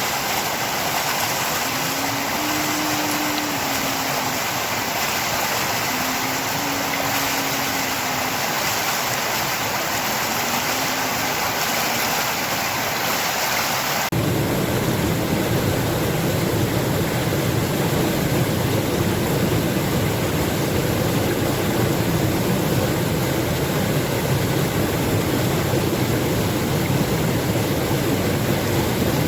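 Steady rush of flowing water. About halfway through it cuts abruptly to a deeper, fuller rush of water, as from a different stretch of the flow.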